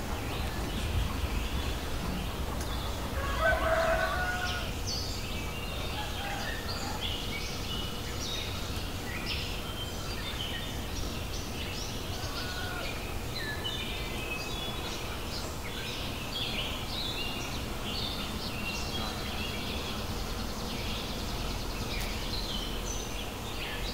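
Birds calling outdoors: many short, high chirps throughout, with one louder, lower call about three to four seconds in.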